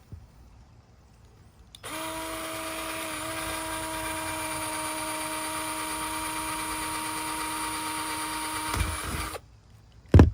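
A handheld power tool's electric motor running steadily for about seven and a half seconds, then stopping; a sharp knock follows about a second later.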